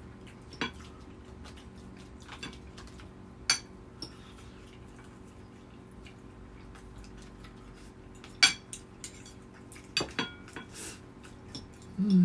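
Eating utensils clinking against plates and bowls during a meal: a handful of separate sharp clinks several seconds apart, over a faint steady hum.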